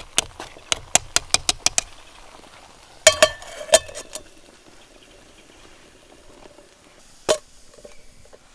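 Metal utensil stirring and clinking against a camp cooking pot: a run of quick light clicks, then a few louder ringing clinks about three seconds in and one more near the end.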